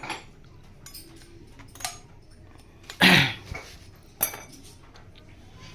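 Motorcycle clutch parts, the clutch disc and pressure plate and other small metal pieces, clinking as they are handled, with a few sharp clinks. A loud short cry comes about three seconds in and is the loudest sound.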